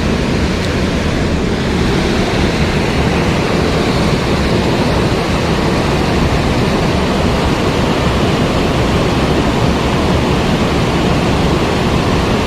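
Mountain stream water rushing over rocks, a loud, steady, even wash of noise.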